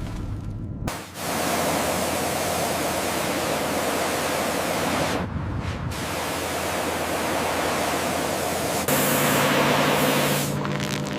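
Steady hissing spray. It dips briefly once midway. Near the end it grows louder for about a second and a half, with a low steady hum under it.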